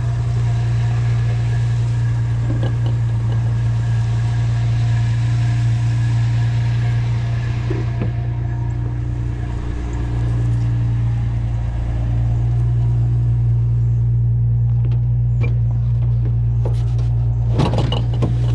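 Pickup truck engine running with a steady low drone, heard from inside the cab. A few sharp clicks and knocks come near the end.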